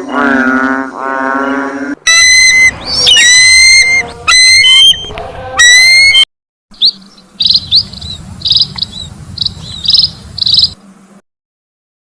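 Several animal calls, one clip after another. First a wavering, low-pitched call. Then loud, high, sharply pitched calls in short runs. Then a string of short high chirps over a low hum, which stops about eleven seconds in.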